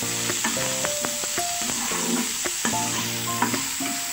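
Vegetables stir-frying in hot oil in a non-stick kadai: a steady sizzle, with a metal spatula scraping and clicking against the pan as they are tossed. Background music with held notes plays over it.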